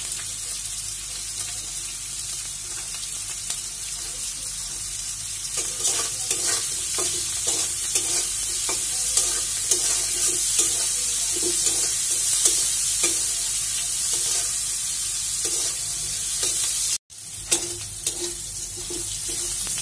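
Sliced onions, green chillies and dried fish sizzling in hot oil in a metal kadai, with a metal spatula scraping and stirring against the pan from about five seconds in. The sound cuts out for an instant near the end.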